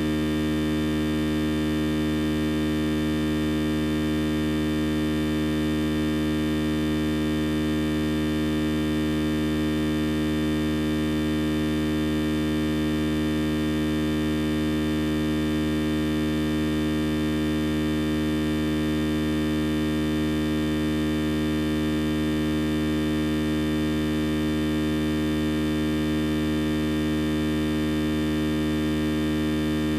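Steady electrical hum with buzzing overtones, unchanging in pitch and level throughout.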